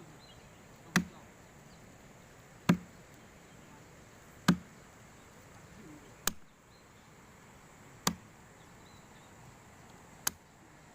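Six sharp chopping strikes of a hand tool, evenly spaced about two seconds apart.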